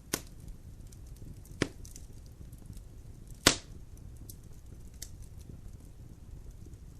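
Logs burning in a fireplace, crackling: three sharp pops, the loudest about three and a half seconds in, with faint ticks over a low steady rumble of the fire.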